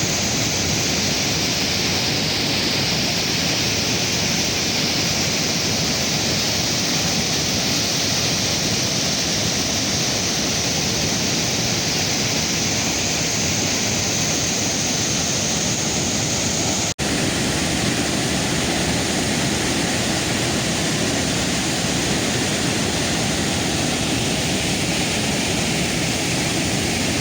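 Waterfall rushing, a loud, steady roar of falling water that cuts out for an instant about seventeen seconds in.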